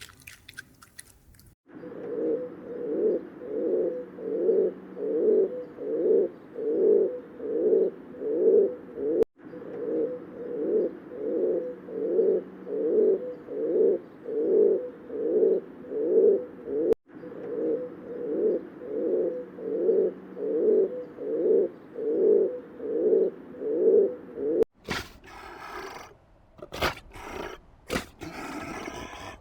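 An animal calling in a long, even series of low pulsing calls, about three every two seconds, with two abrupt cuts partway through. Near the end a different, noisier sound takes over.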